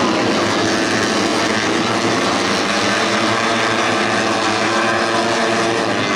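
Tuned 150cc four-stroke underbone racing motorcycles running hard at high revs, several engines layered together in a steady, unbroken sound.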